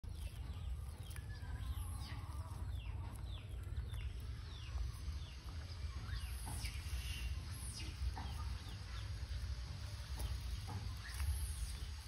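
Birds chirping: many short, quick calls that fall in pitch, over a steady low rumble.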